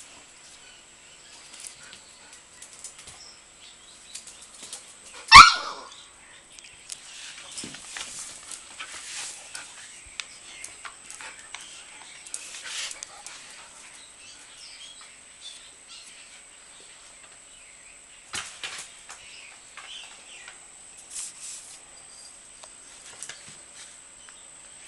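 A dog gives a single sharp bark about five seconds in. Otherwise there are only faint, scattered scuffling noises.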